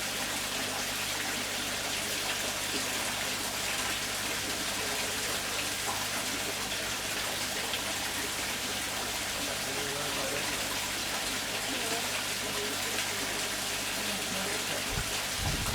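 A steady hiss of running or falling water, with a couple of low bumps near the end.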